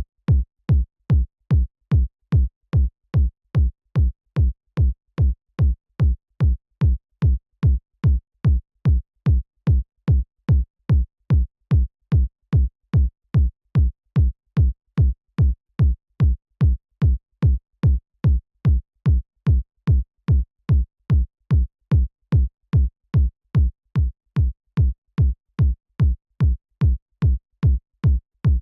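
Synthesized electronic kick drum looping on its own at about two hits a second. Each hit starts with a short click, drops quickly in pitch and settles into a deep low tone, with silence between hits.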